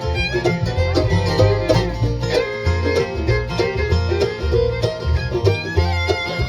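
Live bluegrass band playing an instrumental break: banjo, guitar and fiddle over bass notes alternating about twice a second.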